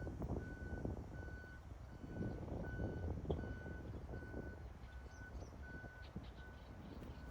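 A lorry's reversing alarm beeps at one steady pitch, about once every three-quarters of a second, over a low rumble of engines and traffic.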